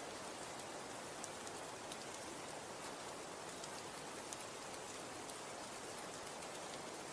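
Falling snow: a steady, even hiss with scattered faint, sharp ticks.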